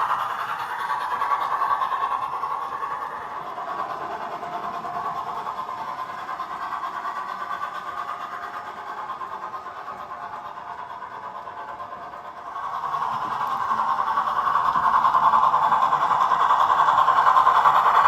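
O gauge Dapol 14xx 0-4-2T model locomotive running along three-rail track. The running noise fades as it moves away, then grows louder again from about twelve seconds in as it comes back close.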